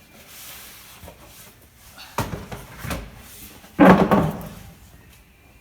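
Knocks and thumps of a cover box being handled and taken down from in front of a wall-mounted water heater, with a few separate hits and the loudest about four seconds in.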